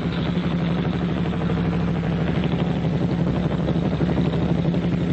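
Military motorcycle engines running steadily with a fast, even beat.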